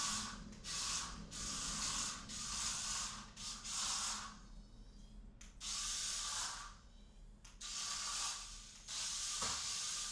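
Mini RC stunt roller car's small electric motors whirring as it is driven in short bursts of about a second each, stopping and starting about a second apart.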